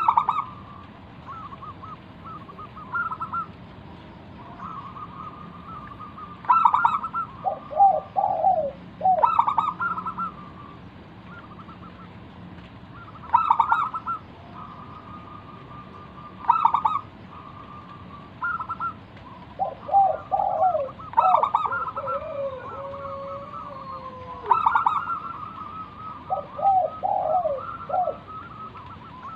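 Zebra dove (perkutut) singing its rippling cooing song, the phrases repeating every few seconds.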